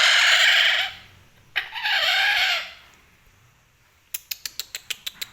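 Pet parrot giving two loud, harsh screeches, then a fast run of sharp clicks, about six or seven a second; the screeching is the bird's angry display.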